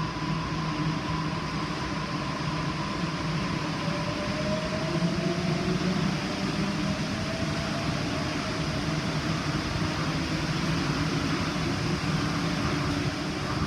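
Electric train running steadily, with faint motor whines, one sliding slowly down in pitch and another rising from about four seconds in.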